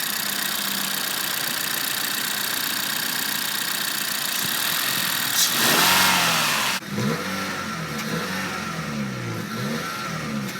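2018 Honda Fit's 1.5-litre four-cylinder engine running steadily, then revved once about six seconds in. The sound cuts off suddenly just after and gives way to a quieter, low wavering sound that rises and falls over and over.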